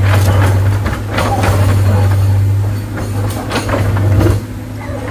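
Heavy diesel engine running hard with a steady low drone, with knocks and clanks over it; the engine note drops away about four seconds in.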